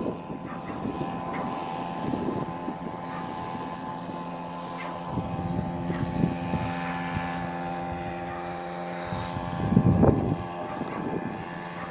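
Small Hangkai 3.5 hp outboard motor running steadily under load, pushing a small boat upstream against a strong current.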